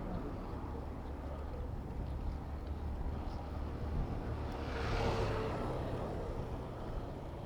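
Urban road traffic heard from a moving bicycle: a steady low rumble, with a vehicle passing close about five seconds in.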